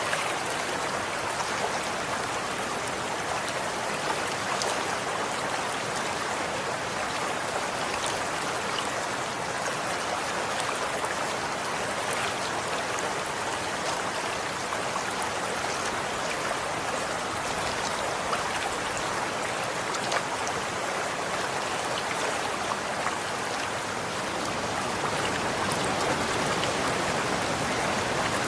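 Running water flowing steadily, a continuous rushing with small splashy ticks, growing a little louder near the end.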